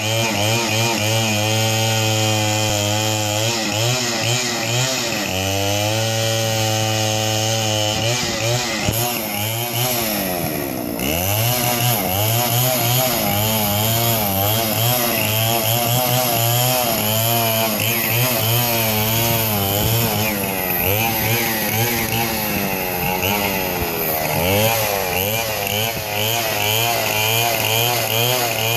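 A small engine running loudly, its pitch rising and falling over and over as it is revved up and down.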